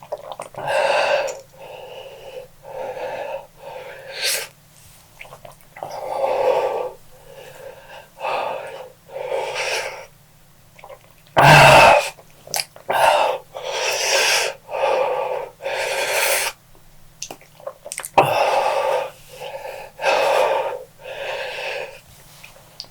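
A person breathing hard through the mouth in a string of uneven, wheezing breaths, with one much louder blast about halfway through. It is his reaction to the burn of an extremely hot pepper chip.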